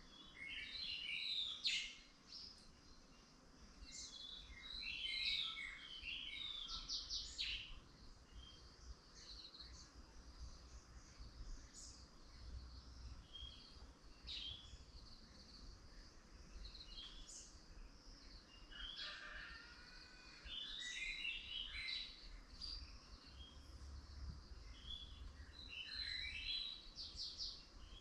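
Several songbirds chirping and singing at once, with short high calls and a few quick trills overlapping throughout, over a faint low rumble.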